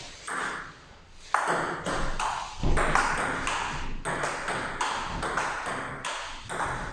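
Table tennis rally: the ball clicking sharply off the bats and the table in quick alternation, starting a little over a second in.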